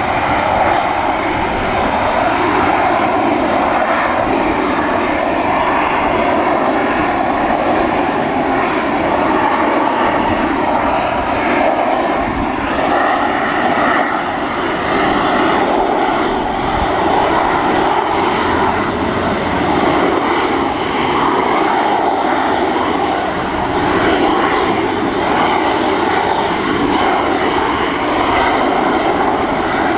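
Harrier jump jet hovering: loud, steady jet noise from its Pegasus turbofan blasting downward through the nozzles, its level wavering slowly.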